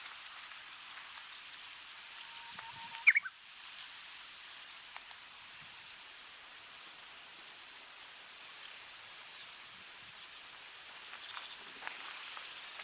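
Japanese bush warbler singing one 'hoo-hokekyo' song about three seconds in: a held low whistle, then a quick rising flourish that is the loudest sound here. A steady hiss runs underneath, with a few faint short high trills later on.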